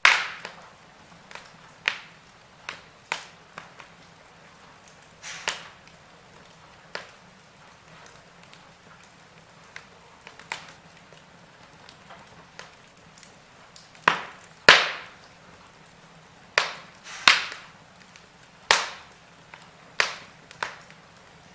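Wood fire crackling in a fireplace: sharp, irregular snaps and pops every second or so, with the loudest pops in the second half, over a faint steady background.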